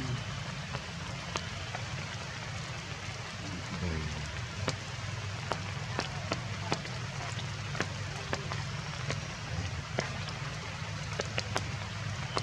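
Heavy rain falling steadily, with frequent sharp drops striking close by at irregular intervals.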